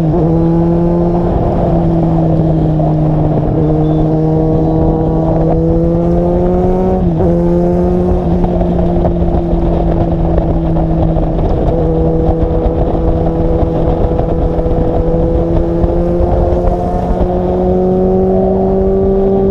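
Car engine and exhaust droning steadily under way. The pitch climbs slowly, drops suddenly about seven seconds in, as at a gear change, then holds and creeps up again near the end.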